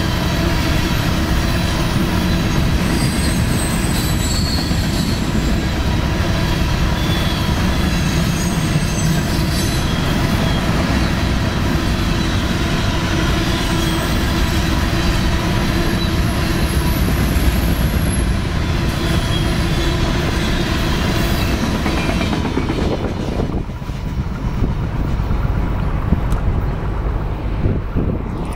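BNSF freight train's covered grain hopper cars rolling past at speed: a steady loud rumble and clatter of steel wheels on rail, with thin high-pitched wheel squeal over it. The noise drops away about 23 seconds in as the end of the train goes by.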